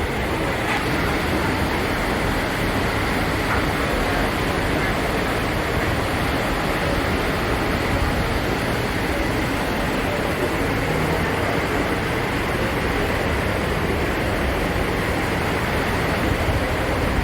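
Steady rushing of sea and wind on a cruise ship's open deck, even throughout with no distinct events.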